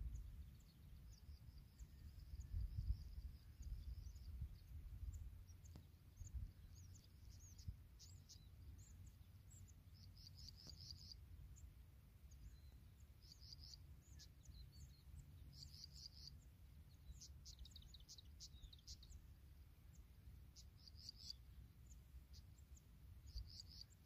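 Faint, high-pitched bird chirps in short bursts every couple of seconds, over a low rumble that is strongest in the first few seconds.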